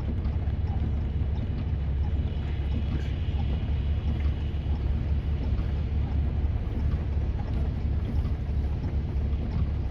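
Steady low rumble of storm wind buffeting the microphone, with no distinct strokes or tones.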